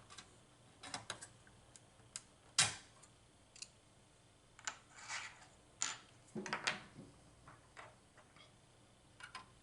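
Scattered small clicks and taps of EPROM chips and a chip puller being handled, as a DIP game chip is pulled from and pressed into its socket on a slot machine logic board. There is a louder click about two and a half seconds in, with light rustling between the clicks.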